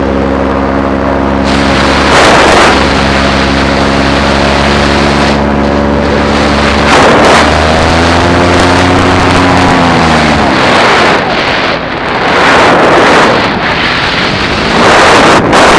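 Paramotor engine and propeller running steadily, with heavy wind buffeting on the microphone. About seven seconds in, the engine note dips and rises; a little past ten seconds it falls away, leaving wind rush.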